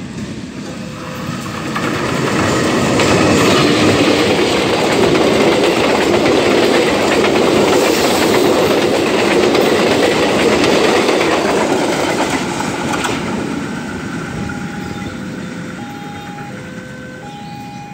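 Passenger train with a diesel locomotive passing close by at speed without stopping: the noise builds over a couple of seconds, holds loud for about ten seconds as the coaches' wheels run by on the rails, then slowly fades.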